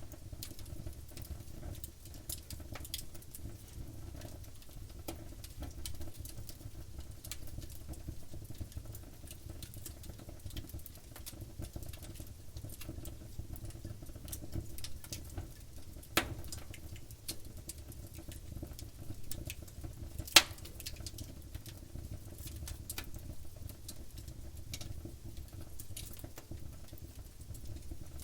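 Wood fire crackling steadily, with many small snaps over a low rumble and two sharper, louder pops in the second half.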